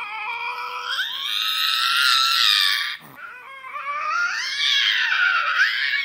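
Lynx yowling: two long, high, wailing calls, the first rising in pitch about a second in, the second sliding up and down.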